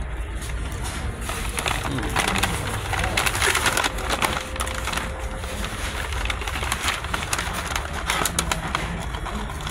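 Close-up mouth sounds of someone eating McDonald's French fries: wet chewing and smacking, with quick clicks that run on for most of the stretch.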